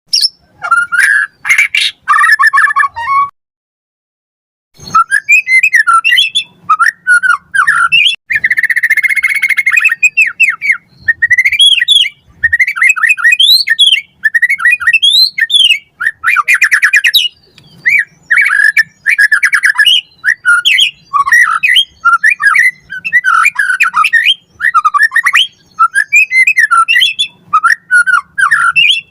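White-rumped shama singing loud, fast, varied song: rising and falling whistles, rapid trills and chattering phrases, with a brief pause a few seconds in.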